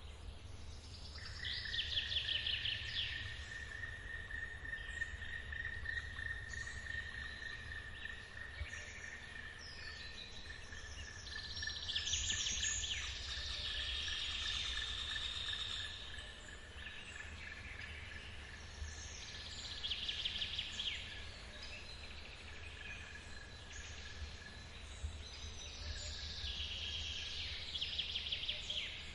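Forest birds singing short trilling phrases every several seconds, over a long, steady, high-pitched insect trill and a low steady rumble.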